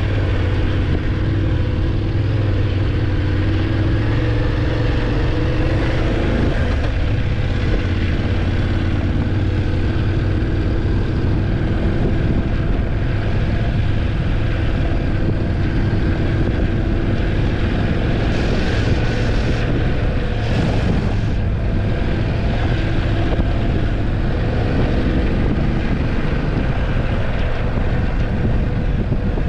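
BMW F850GS parallel-twin engine running steadily while the motorcycle is ridden, with road noise. The engine note steps down about six seconds in, and a few short rushes of hiss come about two-thirds of the way through.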